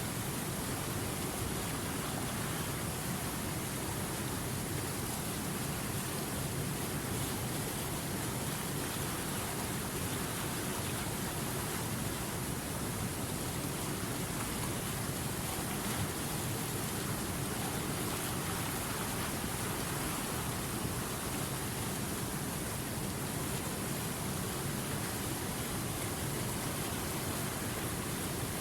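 Steady rushing of running river water, an even wash of noise that never lets up.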